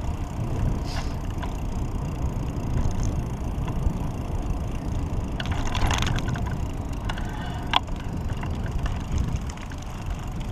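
Riding a pedal bike: a steady low rumble of wind and road noise, broken by a few short clicks and rattles from the bike.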